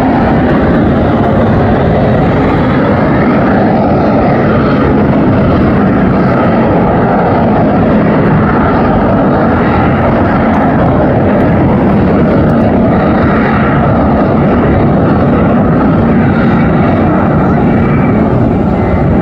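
Harrier AV-8B's Pegasus turbofan jet engine, running loud and steady with a slowly wavering pitch.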